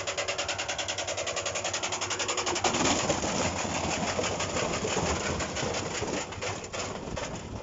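Washing machine running with a fast, even rattle of about a dozen clicks a second, which after about three seconds turns into a rougher, uneven mechanical noise.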